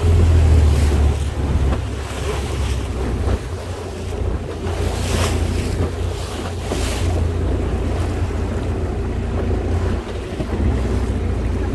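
Longtail boat engine running with water rushing and wind buffeting the microphone; a couple of brief louder rushes of water or wind come about midway.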